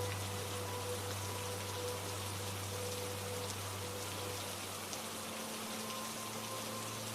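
Steady rain falling, an even hiss of many drops. Faint sustained low tones sound beneath it and shift about five seconds in.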